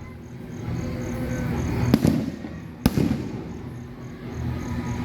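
Aerial fireworks bursting: two sharp bangs in the middle, less than a second apart, each trailing off in a low rumble.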